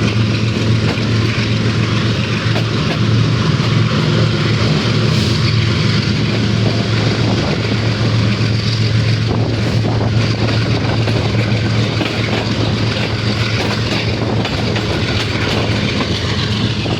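Pakistan Railways GEU-40 diesel-electric locomotive No. 9020 hauling the train, a steady roar of its engine with a strong low hum over the rushing noise of the moving train.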